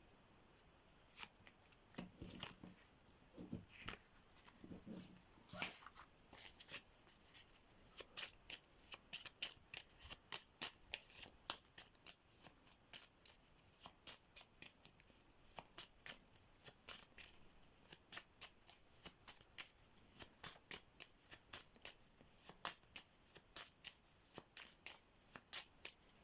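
A deck of playing cards being shuffled by hand, a rapid run of crisp card flicks, several a second, that settles into a steady rhythm after a few softer rustles at the start.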